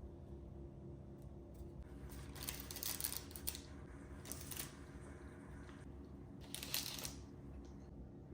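Light rustling and scraping of objects being handled, three short bursts, over a steady low hum.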